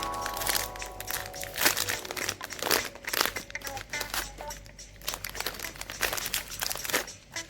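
Plastic snack wrapper crinkling and crackling in quick, irregular bursts as it is handled and opened.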